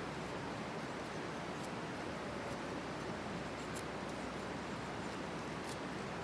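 Small wood fire crackling: a steady hiss with scattered sharp pops and ticks, about one a second.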